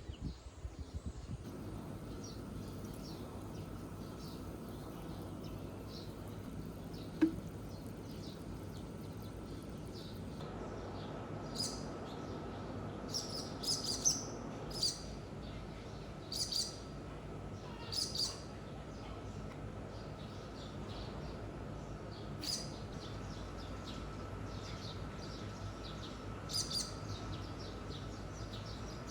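Birds chirping: short, high calls every second or so, coming in clusters through the middle stretch, over a steady low hum.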